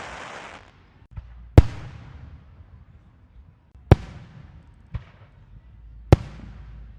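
Fireworks going off: the tail of a crackling burst dies away at the start, then single loud bangs follow about two seconds apart, with a few smaller pops between them. Each bang is followed by a fading echo.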